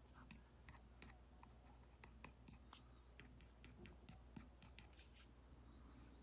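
Faint Apple Pencil Pro tip tapping and stroking on an iPad's paper-like matte screen film: a run of quick light taps, with a short scratchy stroke about five seconds in, over a steady low hum.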